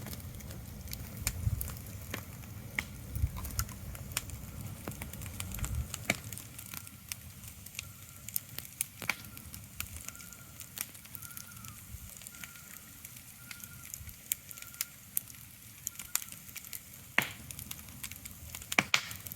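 Ambient crackling: sporadic sharp crackles and clicks over a low rumble that drops away about six seconds in, with a faint, short repeated high note in the middle.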